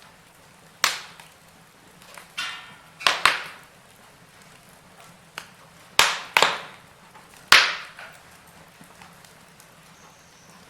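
Wood fire in a fireplace crackling, with about eight sharp, irregular pops from the burning logs over a faint steady hiss. The loudest pop comes about three-quarters of the way through.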